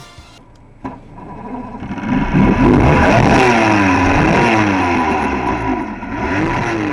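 Bass boat's outboard motor running loud, its pitch rising and falling repeatedly as the revs change. It comes in suddenly about a second in and builds over the next second or so.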